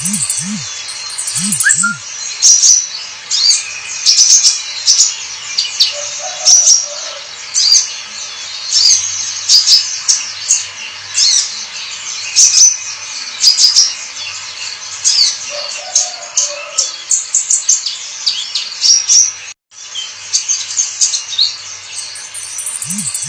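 Sunbird (the 'kolibri ninja') singing a fast, varied song of high, thin chirps and trills, with a brief cut about twenty seconds in.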